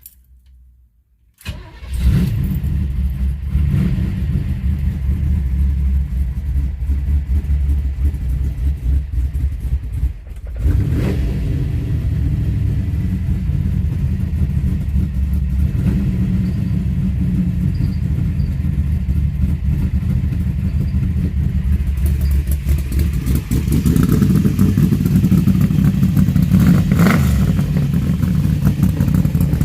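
The 1955 Chevy sedan delivery's newly installed engine is started for the first time on its freshly primed fuel line. It catches about a second and a half in and runs loud and steady through Cherry Bomb mufflers, dips briefly around ten seconds in, then picks up again and gets louder near the end.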